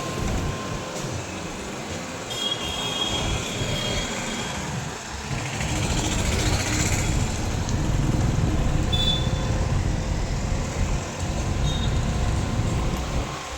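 Steady rumble of a large vehicle, growing louder about halfway through, with a few brief high-pitched squeals.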